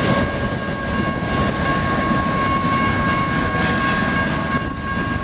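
Freight cars of a Canadian National train rolling past, wheels clacking over rail joints, with a thin steady high-pitched ringing tone from the train that fades out near the end.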